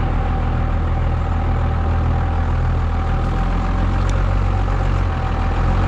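Old camper truck's engine running steadily, a low even hum with a steady higher tone over it.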